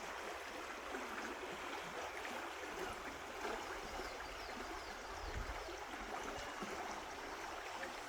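Stream water running steadily, a continuous babbling rush.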